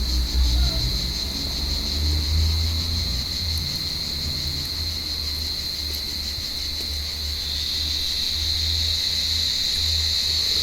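Cicadas calling in a tree: one steady, high-pitched buzz that grows a little stronger in the second half. A low rumble runs underneath.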